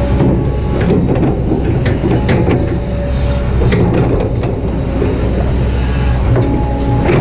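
Kobelco SK200-8 hydraulic excavator at work: a steady diesel rumble, a hydraulic whine that comes and goes, and scattered metallic clanks and knocks.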